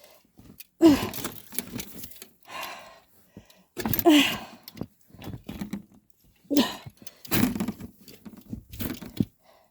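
A person grunting with effort several times, with rustling and crunching of deep snow in between as they struggle through it.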